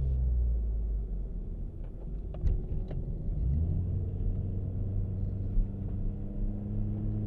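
Car engine and road rumble heard from inside the cabin while driving a canyon road, the engine note settling to a steady pitch about halfway through. A few light clicks sound around the middle.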